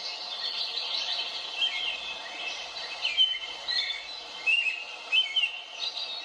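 Birds chirping: short, quick rising and falling calls repeating over a steady background hiss.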